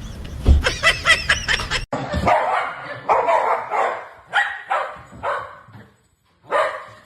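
A dog barking in a run of short calls, broken off suddenly about two seconds in and picking up again.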